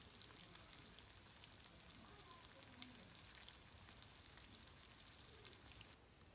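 Faint, steady sizzle of chicken breasts frying in hot oil in a pan, with scattered small crackles.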